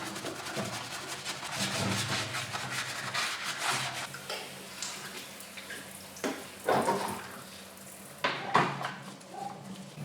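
Motorcycle parts being washed and scrubbed in water, with splashing and scattered clinks of the parts, over a steady low hum; louder splashes or knocks come about two-thirds of the way in and again near the end.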